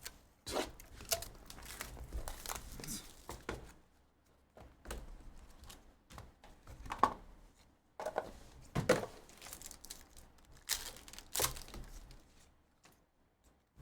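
Trading-card pack wrappers crinkling and tearing as packs are ripped open, in irregular rustling crackles with a few sharper rips.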